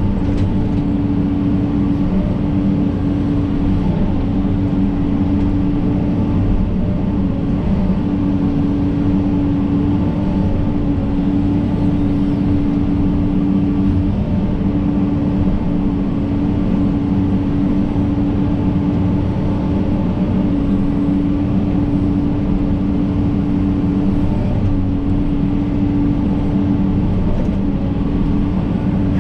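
John Deere 130G excavator's diesel engine running steadily under working load, with a constant droning tone.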